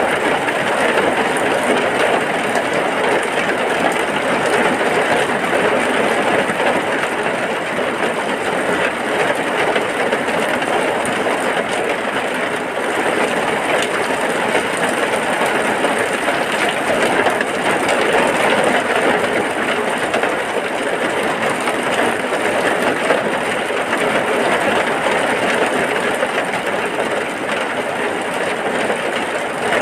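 Heavy rain falling in a steady, dense hiss with no breaks.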